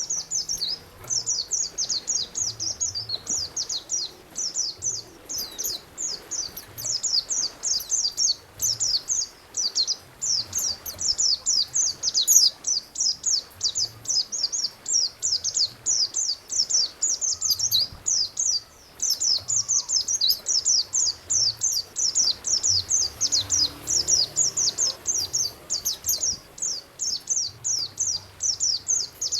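Songbird song played as a masteran recording for training cage birds: a continuous, rapid chatter of short, high-pitched falling notes, several a second.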